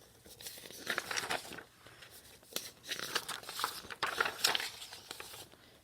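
Paper photo prints being handled, rustling and crinkling in three short bursts.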